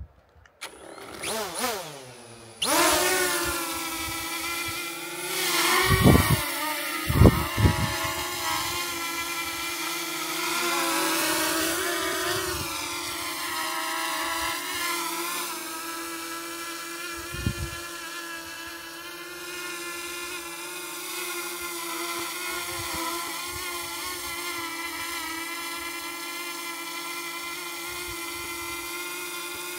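Quadcopter drone's motors spinning up with a rising whine in the first couple of seconds, then a steady propeller buzz whose pitch wavers and drifts as it hovers. A few brief low thumps come about six, seven and seventeen seconds in.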